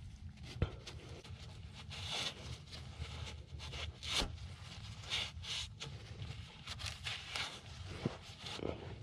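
Intermittent scraping and rubbing from hand work on small parts, with a few sharp clicks, the loudest about halfway through, over a steady low hum.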